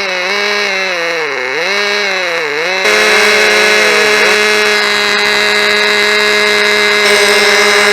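Tiny model engine of a 1/16-scale AE86 radio-controlled car buzzing at high revs. Its pitch wavers and dips twice, then about three seconds in it turns suddenly louder and holds a steady, high buzz.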